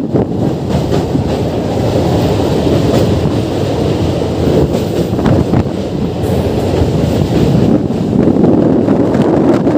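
Indian Railways train running on the Saryu river bridge: a steady rail rumble with the wheels clicking over the rail joints, and wind on the microphone.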